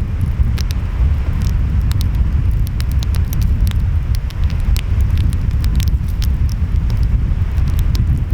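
Wood fire crackling, with frequent sharp pops and snaps, over a steady deep rumble of ocean waves and wind.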